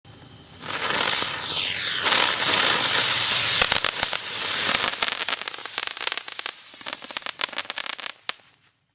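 Spinner firework burning: a loud hiss with a steady high whistle, sweeping down in pitch early on, then rapid crackling pops through the second half before it burns out near the end.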